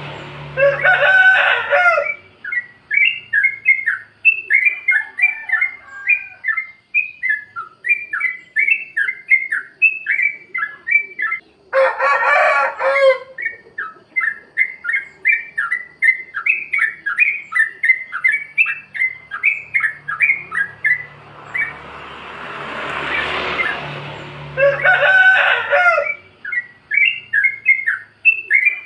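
Trucukan (yellow-vented bulbul) singing its chattering 'plik plok' song: a fast, unbroken run of short, bubbly notes, broken by louder, harsher bursts about a second in, near the middle and near the end.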